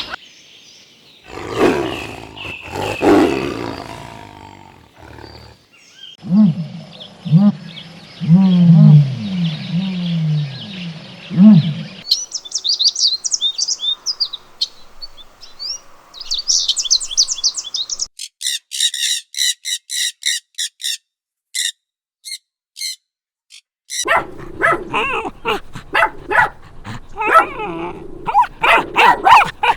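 A run of different animal calls, one clip after another: loud calls at first, then a series of pitched calls that slide down in pitch, then high bird chirping, then rapid high chirps, then more calls near the end.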